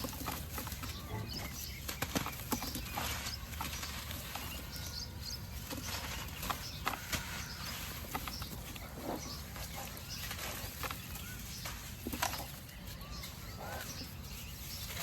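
Dried white cement shapes being crumbled in water: a steady run of irregular small crunches and crackles.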